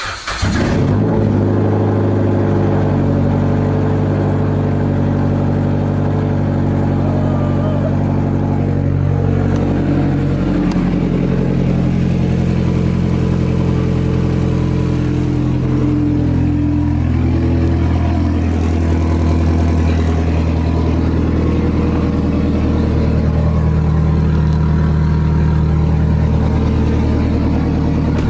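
Turbocharged 2.4-litre four-cylinder of a 2008 Dodge Caliber SRT-4 catching right at the start on its first start on E85 with a base tune, then idling steadily. The idle speed drifts a little as it runs.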